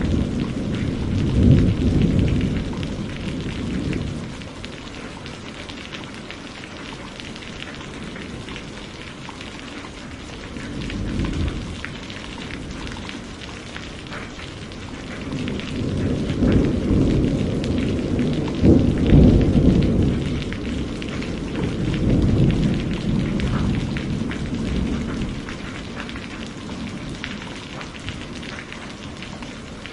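Steady rain pattering, with thunder rumbling low several times: at the start, briefly about a third of the way in, and in a longer roll through the middle.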